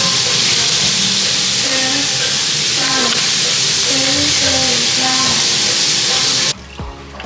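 Food sizzling loudly and steadily as it cooks, with a soft melody underneath. The sizzle cuts off suddenly near the end.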